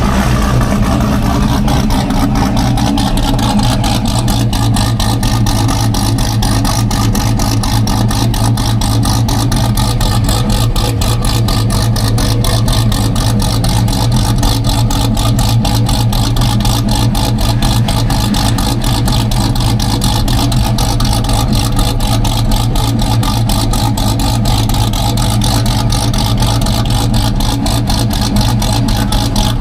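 Car engine idling steadily and loudly, close up, with a fast even exhaust pulse.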